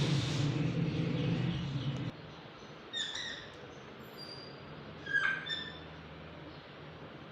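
Alexandrine parakeet giving two short high calls, about three seconds and five seconds in. A louder low-pitched drone fills the first two seconds.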